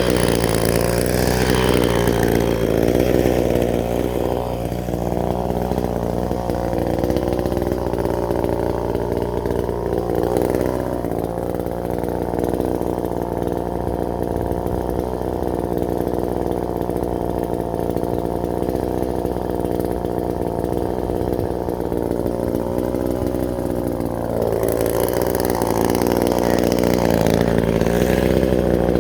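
Chainsaw running and cutting, its engine pitch sagging and recovering under load near the start and again near the end, with a steadier, softer stretch in the middle.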